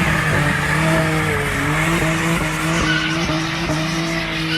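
Car doing a burnout: the engine is held at a steady high rev while the driven tyres spin and squeal against the pavement, with a thick hiss of tyre noise over the engine note.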